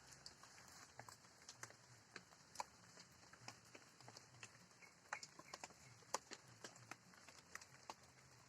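Light rain: scattered raindrops tapping irregularly and faintly, several ticks a second, over a soft hiss.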